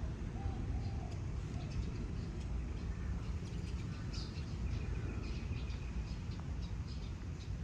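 Small birds chirping with many short high chirps and one briefly held note around the middle, over a steady low rumble of wind or distant traffic.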